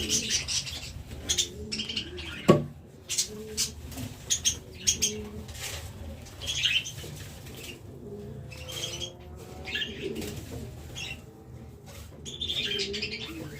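Domestic pigeons cooing, with bursts of high chirping and flapping from the birds in the loft. A single sharp knock comes about two and a half seconds in, loudest of all.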